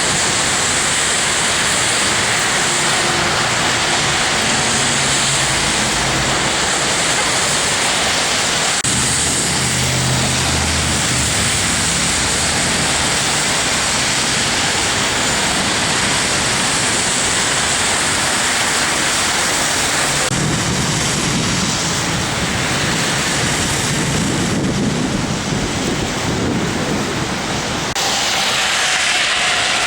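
Storm wind blowing in a steady, loud roar, with low rumbles that come and go as gusts hit the microphone.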